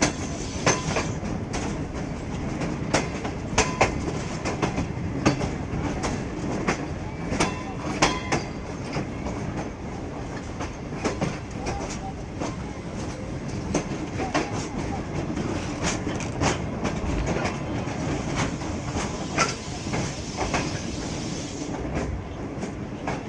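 Passenger train running on the track: a steady rumble with irregular clicks of the wheels passing over rail joints, a few per second.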